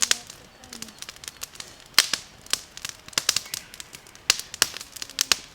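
Wood campfire crackling: sharp, irregular pops and snaps, some much louder than others.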